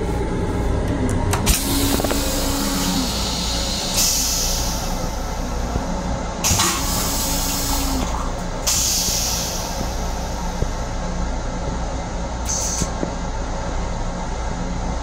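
Steady low rumble of a moving M7 electric railcar heard from inside its restroom, with several hissing bursts of one to three seconds each over it.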